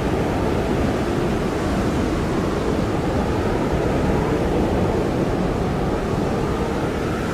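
Blizzard wind blowing steadily, a dense rushing noise with a faint whistling tone in it.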